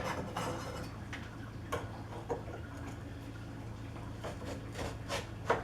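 A few scattered light clicks and taps, irregularly spaced, as a drill press table sleeve and rack are worked into place by hand, over a low steady hum.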